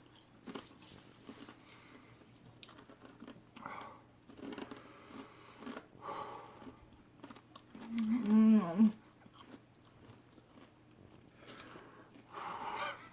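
A person crunching and chewing a habanero potato chip, with a wavering groan about eight seconds in from the heat of the chip.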